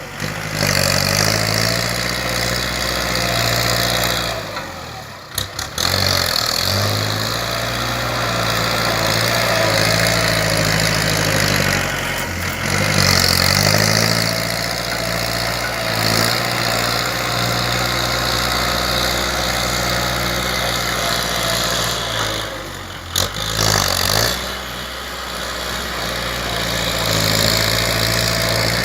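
Kubota L4708 tractor's diesel engine running while grading and pushing soil, its note dipping and recovering a few times under load. The sound briefly drops out twice.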